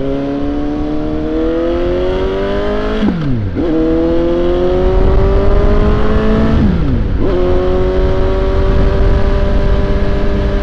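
Suzuki GSX-S750's inline-four engine accelerating hard through the gears. The revs climb and drop sharply at two upshifts, about three and seven seconds in, then hold nearly steady in third gear. Wind noise grows as speed builds.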